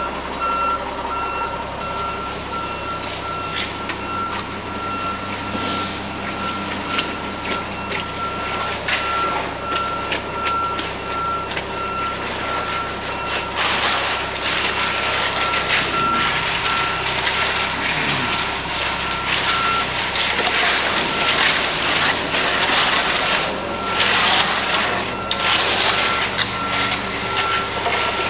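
Concrete mixer truck backing up: its reverse alarm beeps steadily over the diesel engine running. About halfway through, bursts of rushing, scraping noise join in.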